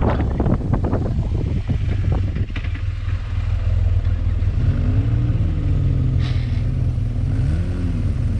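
BMW R1200GS boxer-twin engine running on the road under a haze of wind and road noise. The engine note rises and falls twice, about five seconds in and again near the end.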